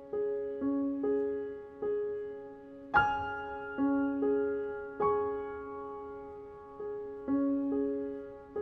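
Background music: slow solo piano, single notes struck about once a second and each left to ring, with a louder chord about three seconds in.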